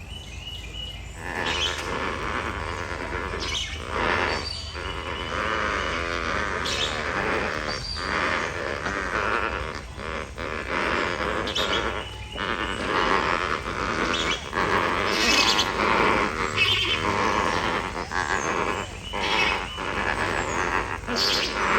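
A flock of lesser flamingos calling, a dense chorus of many overlapping calls that starts about a second in.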